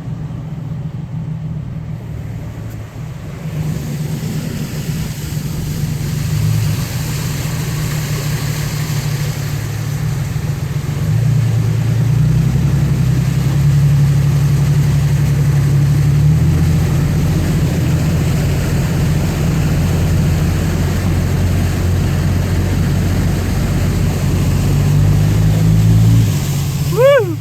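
Truck engine running at low revs, pulling slowly through deep water; its pitch steps up and down a few times and it grows louder about ten seconds in. A brief falling high-pitched sound near the end.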